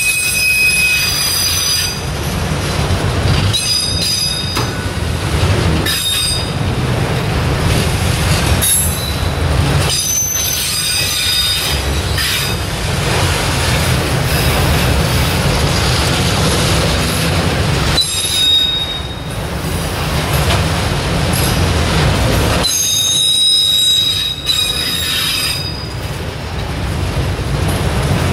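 Freight train of autorack cars rolling past at close range: a steady rumble and clatter of wheels on rail, with high-pitched wheel squeal that comes and goes several times.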